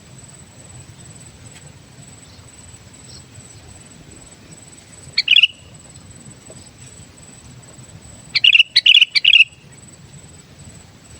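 Sooty-headed bulbul calling: one short phrase about five seconds in, then a quick run of three or four notes a little over eight seconds in. A constant thin high tone runs underneath.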